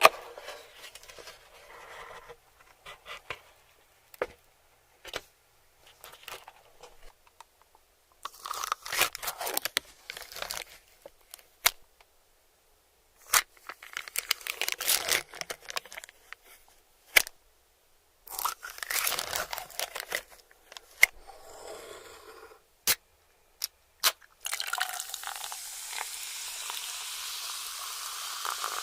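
Close-miked bites into crispy chicken nuggets and pizza: short bursts of crunching and tearing, cut apart by silent gaps. About 24 seconds in, a steady hiss begins and carries on.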